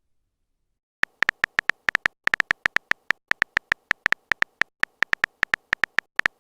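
Phone keyboard typing sound effect: a quick, uneven run of short high clicking beeps, about five or six a second, starting about a second in.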